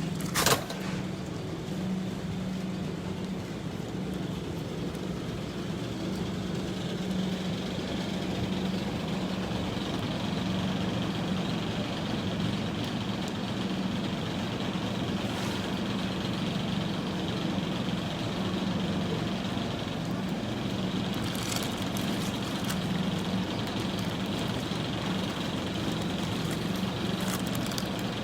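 A vehicle running steadily, with a constant low hum under even noise. A single sharp click comes about half a second in.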